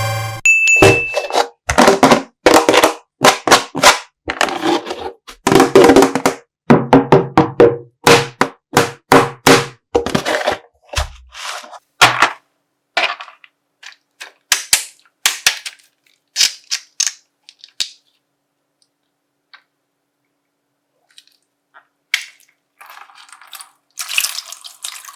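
Slime being popped: a fast run of sharp pops and wet squelches that thins out about two thirds of the way through, followed near the end by softer crinkling of the plastic bag.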